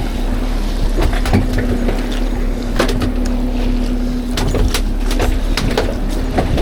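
Fishing boat's motor running steadily under way with a low rumble and a constant drone, with irregular sharp knocks and splashes of the hull in the chop.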